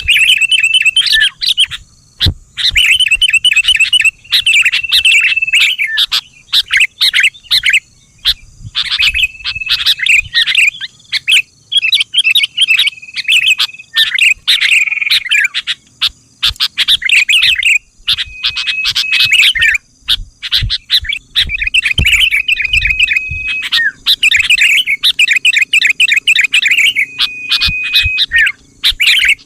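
Sooty-headed bulbul (kutilang) song: loud, lively runs of quick chirping notes with short held whistles, phrase after phrase with brief pauses, as played to lure bulbuls into answering.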